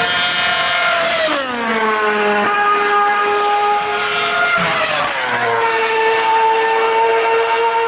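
Formula One cars' 2.4-litre V8 engines running at high revs on track, their high-pitched note dropping in pitch as one car goes by about a second and a half in and another about five seconds in.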